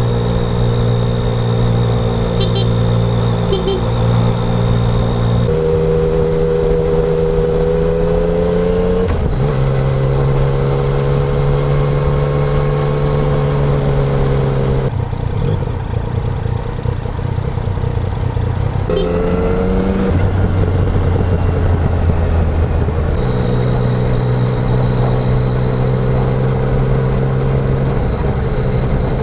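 Yamaha Tracer 900's 847 cc three-cylinder engine through its stock exhaust, ridden along. The engine note holds steady for a few seconds at a time, then steps to a new pitch about five times as the rider changes gear and opens and closes the throttle, with a rougher, lower stretch in the middle.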